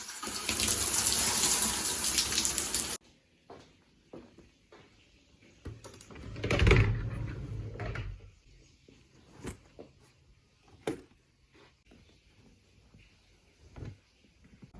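Water running from a tap into a sink, shut off abruptly about three seconds in. A second shorter rush follows a few seconds later, then scattered small knocks and clicks.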